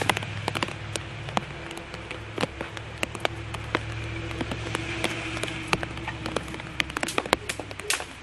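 Rain: large drops tapping irregularly on a nearby hard surface over a steady hiss of falling rain.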